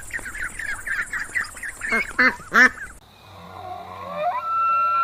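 A flock of birds calling over and over, with three loud honking calls about two seconds in. The sound then cuts to a different clip: a wavering call that rises into one long steady high-pitched tone.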